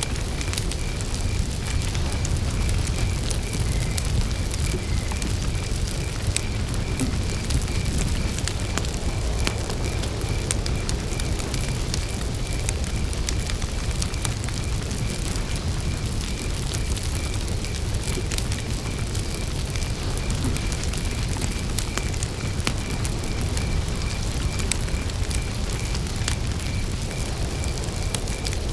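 Campfire burning, crackling with scattered sharp pops of burning wood over a low rumble, while a cricket chirps in a steady even rhythm.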